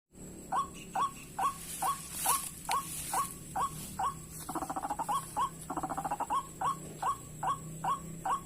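White-breasted waterhen calling: a steady run of short, repeated notes, a little over two a second. Twice in the middle it breaks into rapid chattering.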